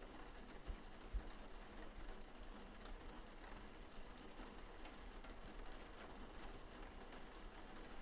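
Faint, steady rain: an even hiss of falling rain with scattered small drop ticks and a couple of soft low thumps about a second in.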